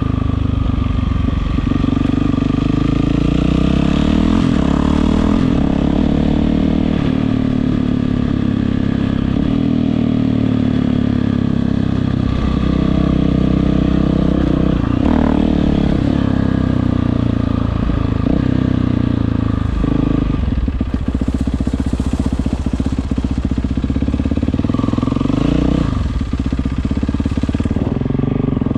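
Yamaha WR450F single-cylinder four-stroke engine through an Akrapovič exhaust, the pitch climbing and dropping again and again as the throttle is opened and closed.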